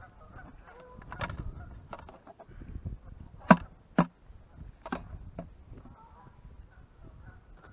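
About six sharp knocks or clacks, the two loudest close together about three and a half and four seconds in, with geese honking faintly now and then.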